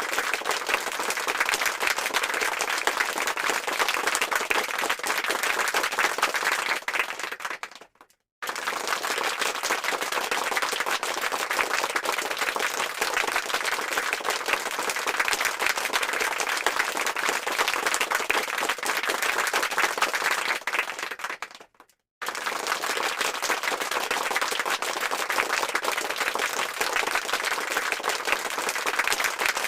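Crowd applause: many hands clapping in a dense, steady patter. It fades out to a brief silence twice, about 8 seconds in and about 22 seconds in, then starts again at full level.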